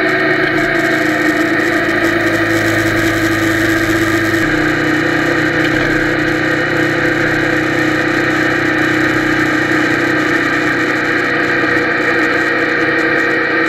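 Yamaha TDM parallel-twin motorcycle engine running steadily at cruising speed, heard muffled through an action camera's waterproof case on the handlebars. The engine note changes abruptly about four and a half seconds in, then runs steadily again.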